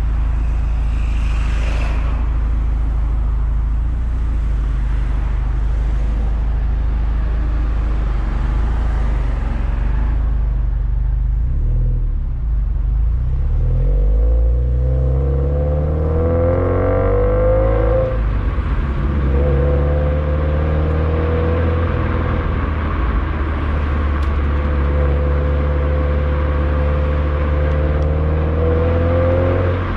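Subaru WRX STI's turbocharged flat-four exhaust through an HKS Super Turbo Muffler while driving: a steady low drone at first, then the engine pulls up through the revs, drops in pitch at a gear change a little past halfway, and climbs again.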